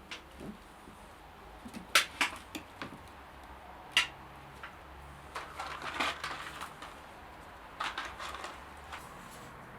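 Scattered sharp knocks and clatters of objects being handled on a workbench, the loudest about two and four seconds in, over a faint steady hum.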